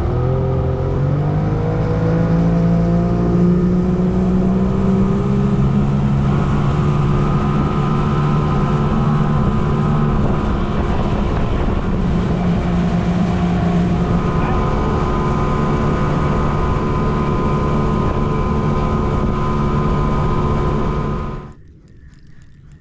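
Boat motor running under way, its pitch rising over the first few seconds as it speeds up and then holding steady, cutting off suddenly near the end.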